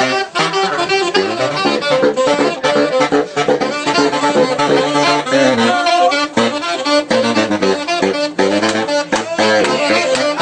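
Saxophone playing jazz, a run of quick notes that keeps jumping in pitch, with no break.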